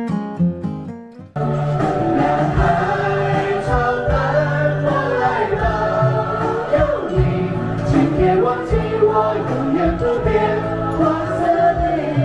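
Plucked acoustic guitar music fades out, then about a second and a half in there is an abrupt cut to a choir singing a song with instrumental accompaniment.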